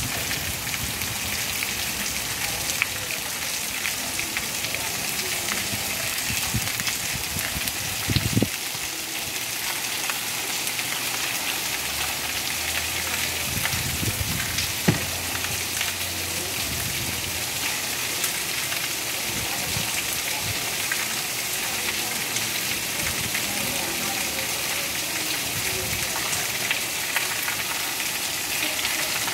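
Steady rain falling on a wet paved street, a dense even hiss, with a couple of brief thumps about 8 and 15 seconds in.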